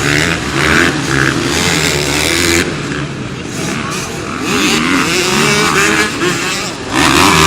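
Motorcycle engines running loud on a race track, their pitch wavering up and down as they rev.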